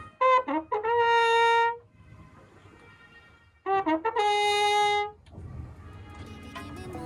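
A trumpet played from the lake boat in two short phrases, each a few quick notes settling into one held note. Fainter repeats of the tune come back off the surrounding mountain walls between and after the phrases.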